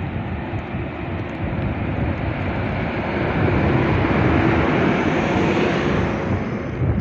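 ČD class 151 electric locomotive hauling an express train out of a station. It runs as a continuous roar with a steady hum, swelling to a peak about four to six seconds in and easing near the end as it passes.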